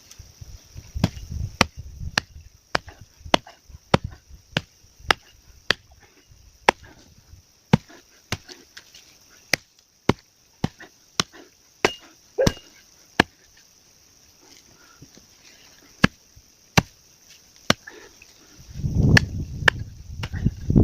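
Repeated chopping blows of a hand tool cutting out roots in the ground, irregular at about one to two strikes a second, with a pause of a few seconds past the middle. Near the end a loud low rumble comes in.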